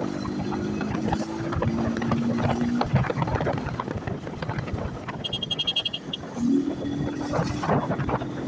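160 cc motorcycle engine running while riding, with wind rushing over it; the engine note rises about six and a half seconds in. A short high pulsing tone sounds for about a second just after the middle.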